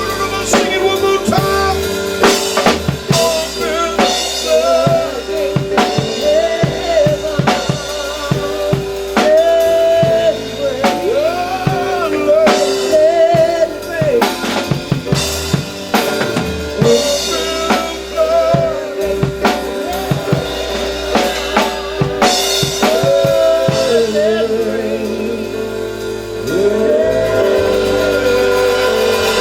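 Live gospel church music: a drum kit played with snare hits, rimshots and bass drum over a held chord and a wavering melody line. The drumming thins out near the end while the chord swells.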